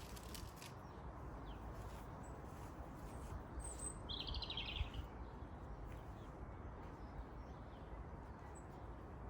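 A small garden bird gives one short chirping trill about four seconds in, just after a brief high note, over the steady low rumble of wind on the microphone.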